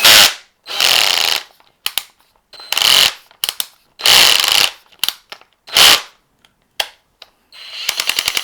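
Porter-Cable 20V cordless drill/driver run in several short trigger pulls with its clutch set to 2, the clutch slipping and ratcheting each time. Near the end the slipping settles into a fast, even clicking of about ten clicks a second.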